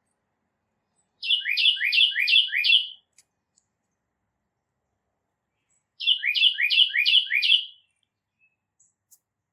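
A songbird singing two short phrases, each of about five quick repeated notes slurring downward, the second phrase about five seconds after the first.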